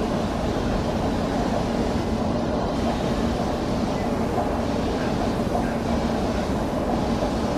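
Indian Railways express train running past with a steady, continuous rumble of wheels on rail.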